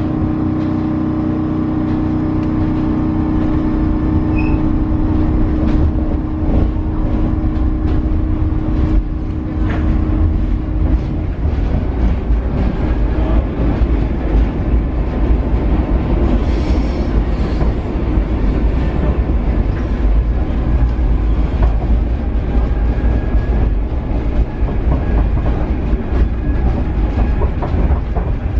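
Paris Metro Line 7bis train running on steel rails: a steady rumble of wheels on track, with a steady motor hum of several tones that fades out about ten seconds in.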